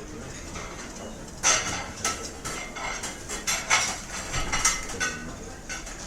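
Restaurant ambience: cutlery and dishes clinking over a low background hum, the clinks sparse at first and then coming thick from about a second and a half in.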